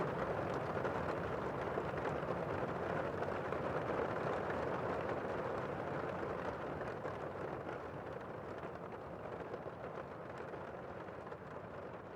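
Steady rain falling, a dense even hiss, slowly fading out over the second half.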